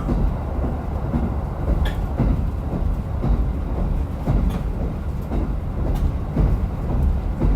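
Diesel railcar running on the Rumoi Main Line: a steady low rumble of engine and wheels on the track, with an occasional sharp click from the rails.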